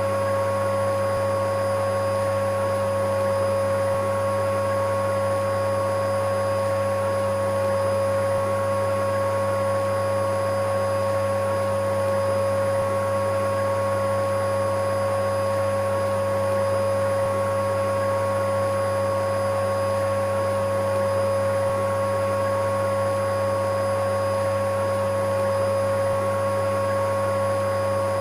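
Electric vacuum cleaner running steadily at one unchanging pitch: a constant motor whine over a low hum and rushing air.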